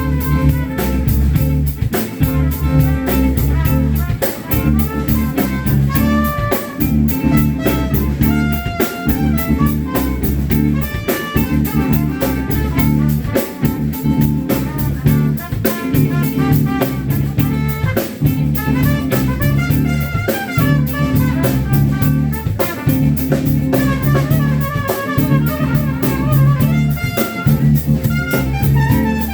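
Live band playing loud, upbeat music: drum kit keeping a steady beat under bass, guitar and a brass horn section.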